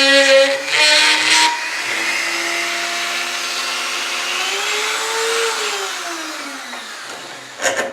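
Small handheld rotary tool's motor running with a steady whine, then switched off and spinning down, its pitch falling away over about two seconds. A few sharp knocks follow near the end.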